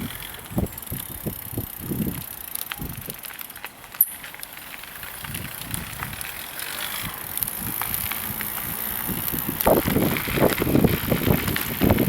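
Bicycle being ridden: irregular road rumble and rattle from the moving bike, with a sharp click about four seconds in, growing louder over the last few seconds.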